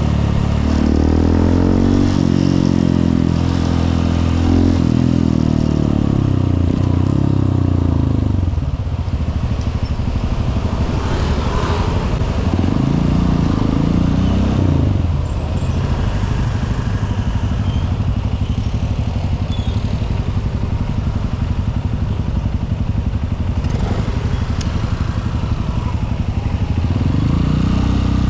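Honda CRF150L's single-cylinder four-stroke engine running while riding. Revs rise and fall repeatedly in the first eight seconds, then it runs steadily at low revs, with short rises in revs about halfway through and again near the end.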